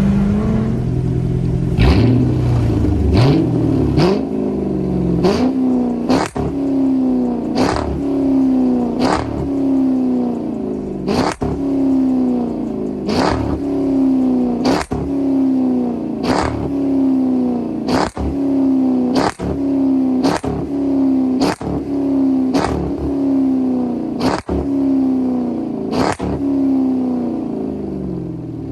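Straight-piped 5.7 L Hemi V8 of a 2006 Dodge Charger R/T, running with only the catalytic converters left in the exhaust. It idles, then is revved in quick throttle blips about once a second, each one jumping up and then falling back.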